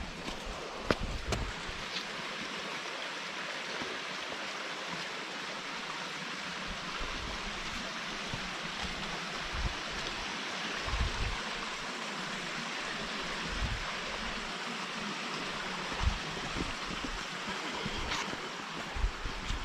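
Mountain stream rushing steadily over rocks, with a few soft low thumps scattered through it.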